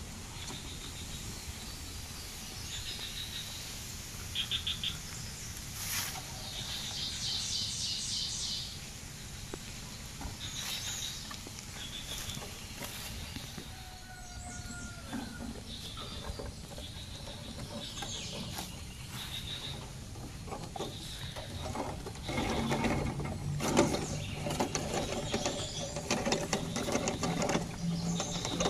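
Birds chirping in short repeated calls, with scattered clicks and rattles that grow busier in the last few seconds.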